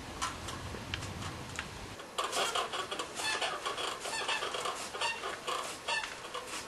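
Birds calling, a busy run of short repeated calls that begins about two seconds in; before that there is only a low hum with a few faint clicks.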